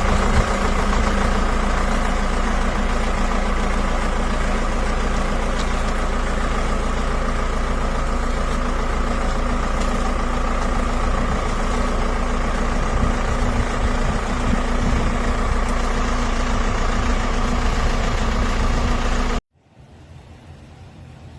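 A motor vehicle's engine idling steadily, with an even hum and no change in pitch. Near the end it gives way abruptly to a much quieter hiss.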